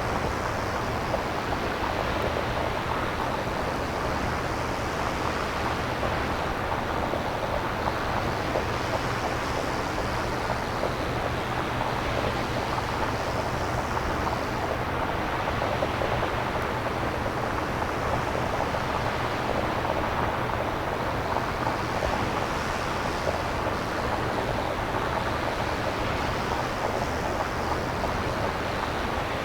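Synthesizer-generated nature ambience: a steady hiss of noise that swells and ebbs softly about every five or six seconds, over a steady low rumble.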